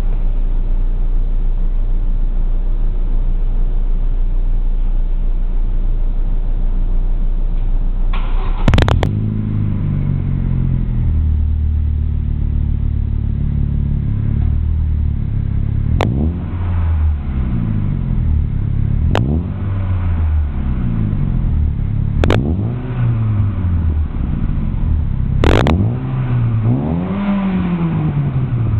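Chevrolet Aveo's four-cylinder engine heard at the exhaust, idling steadily for the first third. It is then revved up and allowed to fall back several times, each rev every few seconds. A sharp click sounds at the start of most revs. The exhaust leak has been repaired.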